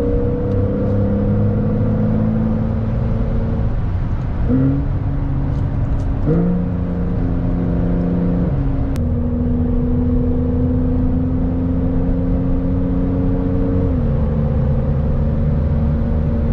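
Porsche 911 Carrera 4 GTS's twin-turbo flat-six running on the road, steady and loud. Its note jumps up in pitch about four and a half and six seconds in, then drops back twice, near eight and a half seconds and again near fourteen, as the PDK gearbox changes gear.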